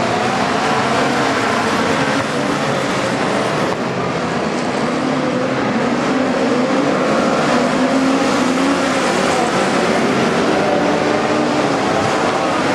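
Midget race car engines running hard as the field laps the track, their pitch rising and falling with no break.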